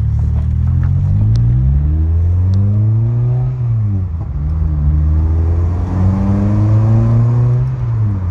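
1993 Renault Clio 1.8 16V's sixteen-valve four-cylinder engine revved twice: each time the revs climb over about three seconds, then drop back quickly to a steady lower note.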